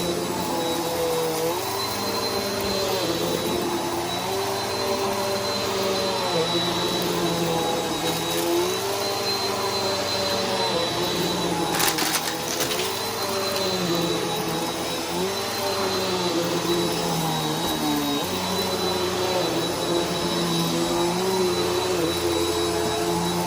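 Bissell PowerForce Helix upright vacuum running with a steady high whine, its motor pitch dipping and recovering every couple of seconds as it is pushed back and forth over the floor. A brief crackle about halfway through.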